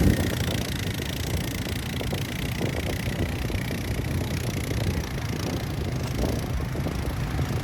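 Steady low rumble of off-road vehicle engines running, with some wind noise on the microphone.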